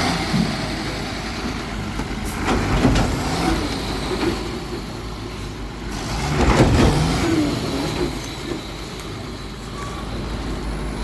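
Heavy diesel road-construction machinery running steadily, growing louder about three seconds in and again around six to seven seconds.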